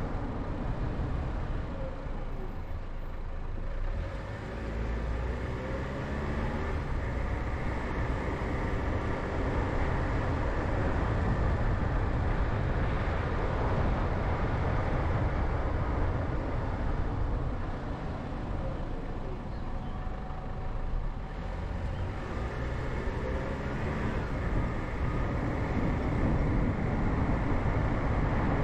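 A car driving, with a steady rumble of road and engine noise. The engine's pitch rises a couple of times as it picks up speed.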